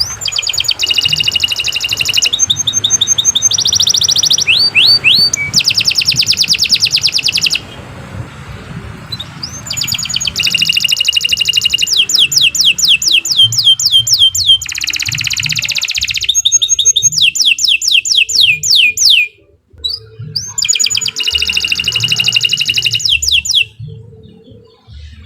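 Domestic canary singing a long, loud song of rapid trills and runs of quickly repeated whistled notes, in three long bouts broken by brief pauses.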